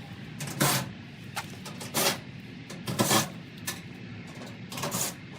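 A series of sharp knocks and clunks, about one every second, as of hard parts being handled and set down.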